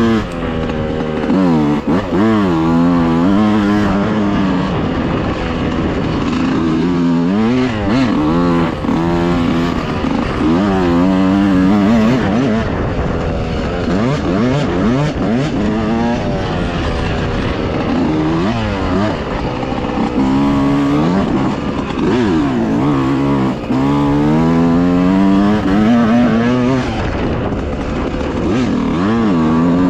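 Dirt bike engine being ridden hard, its pitch rising and falling over and over as the throttle is opened and closed.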